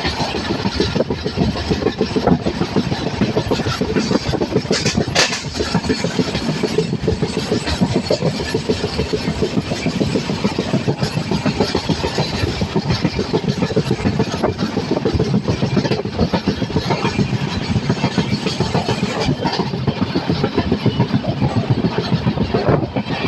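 Train running along the track, a loud, steady, dense clatter of wheels on the rails, with a sharp click about five seconds in.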